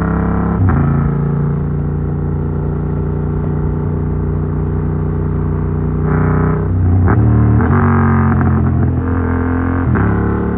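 Yamaha MT-07's parallel-twin engine running through an Arrow Works full exhaust with its dB killer fitted, under way at a fairly steady engine speed. The pitch steps about a second in and shifts up and down several times in the second half.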